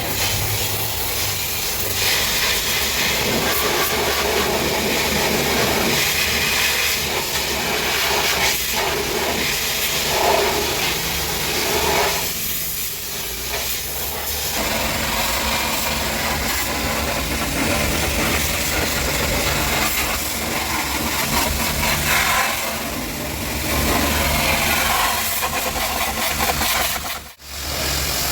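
Pressure washer spraying water onto a car: a steady loud hiss over a low hum, with a brief break near the end.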